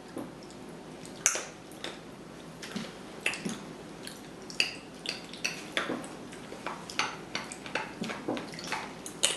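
Small hard candies being tipped out and handled: irregular light clicks and clinks, roughly two or three a second.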